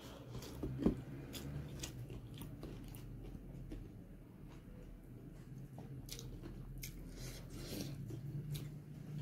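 Close-up chewing and biting of food, with small crunches and mouth clicks scattered through. A single thump about a second in is the loudest sound.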